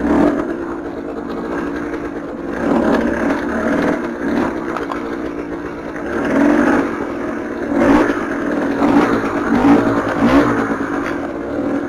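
KTM 300 TPI two-stroke enduro motorcycle engine revving up and down as the throttle is opened and closed, with a few sharp knocks and clatter from the bike.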